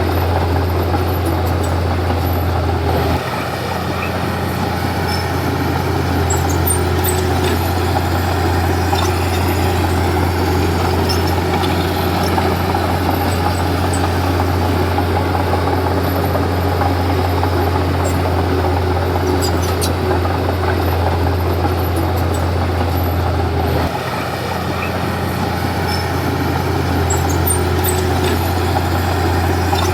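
Komatsu D31P bulldozer's diesel engine running steadily with a deep hum, dipping slightly about three seconds in and again near the end before building back up. A few faint clicks sound over it.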